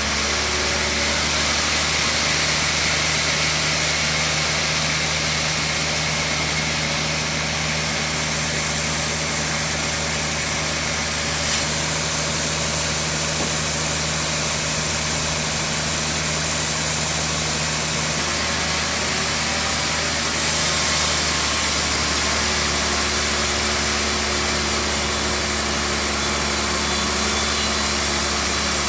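Band sawmill running with a steady hum and hiss, with one brief click partway through.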